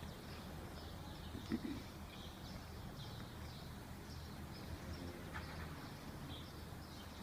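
Faint outdoor ambience with small birds chirping now and then in the background, and a brief low tone about one and a half seconds in.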